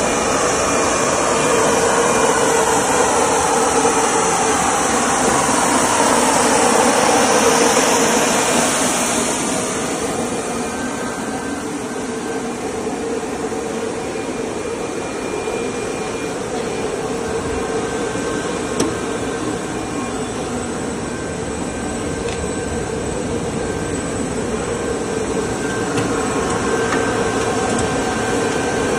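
Plastic hose extrusion line running: a steady machine hum with a strong hiss of air and a few faint steady tones, louder for about the first ten seconds and then a little softer.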